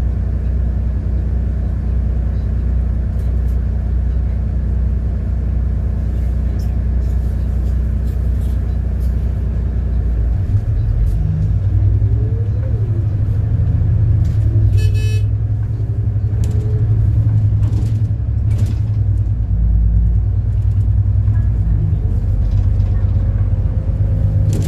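City bus engine running steadily while driving, its low note shifting about ten seconds in, with a brief rapid ticking about fifteen seconds in.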